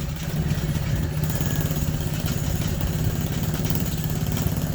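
Small motorcycle engine running at a steady speed, with a fast, even pulsing.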